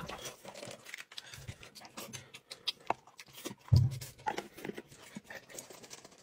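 Close-up eating sounds: wet chewing and lip-smacking made up of many small clicks, with one dull knock about halfway through.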